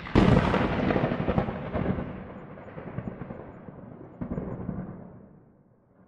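Thunderclap: a sudden loud crack with crackling that rumbles on and slowly fades, a second weaker rumble swelling about four seconds in before dying away near the end.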